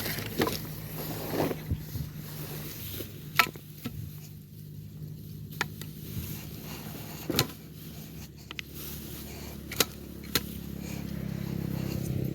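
An engine running steadily, with a low hum that grows a little louder near the end, and scattered knocks and scrapes from eel traps and marker sticks being handled in wet ground.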